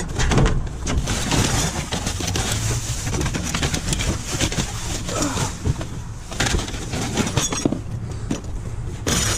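Junk being rummaged through in a dumpster: irregular rustling, knocking and clattering of objects being moved, over a steady low rumble.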